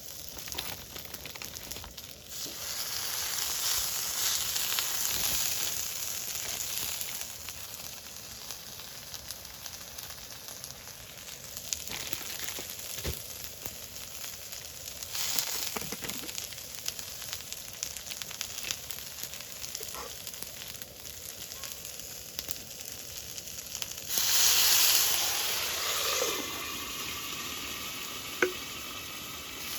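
Food sizzling as it fries in a pan, a steady hiss that swells and fades, with a louder surge of sizzling near the end.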